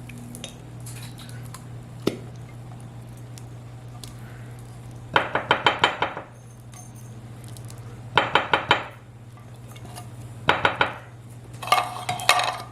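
Metal spoon clinking and scraping against a can and dish in four short bursts of quick strokes, scooping out condensed cream of chicken soup, over a steady low hum.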